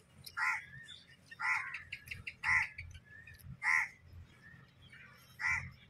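A bird calling repeatedly outdoors: five short calls, about a second apart, with a longer gap before the last.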